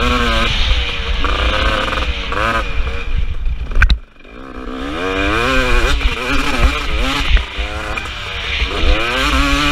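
KTM 250 SX two-stroke motocross engine revving up and down hard through the gears, with a low rumble underneath. A sharp knock comes about four seconds in, the engine note drops away almost completely, then it builds back up and keeps revving.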